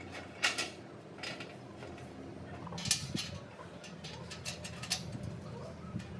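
Scattered clinks and scrapes of metal parts being handled over a steady low hum, with sharp clicks about half a second in, near the middle and again a little later.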